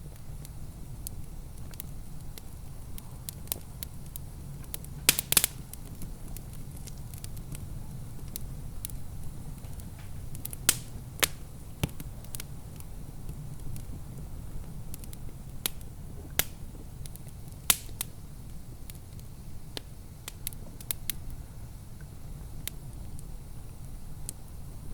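Wood fire in a fireplace crackling, with irregular sharp pops over a steady low rumble; a small cluster of louder pops comes about five seconds in.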